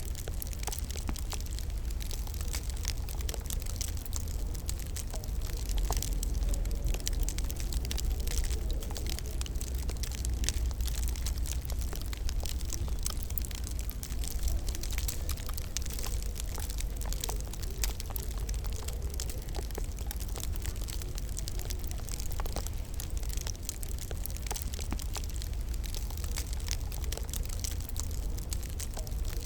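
Wood fire crackling in a fireplace: frequent small pops and snaps over a steady low rumble of the flames.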